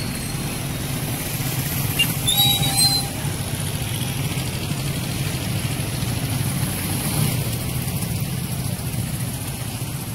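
Steady road traffic running past, a low continuous rumble, with a louder passing vehicle and a few short high chirps about two to three seconds in.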